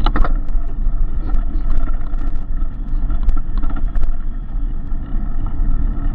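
Road noise heard from a moving bicycle: a heavy, steady low rumble of wind and traffic, with scattered sharp clicks and rattles, the loudest right at the start.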